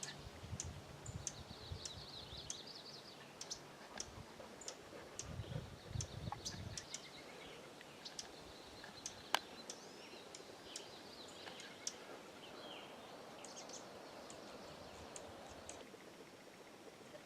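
Wild songbirds singing and calling: high repeated trills and short chirps, with scattered sharp clicks and a low rumble during the first several seconds.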